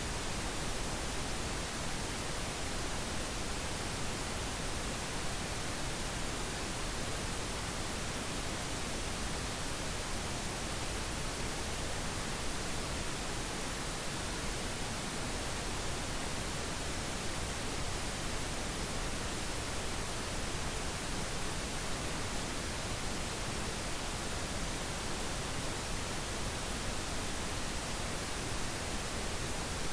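Synthetic pink noise: a steady, even hiss spread across the whole range of pitch, with no changes or events.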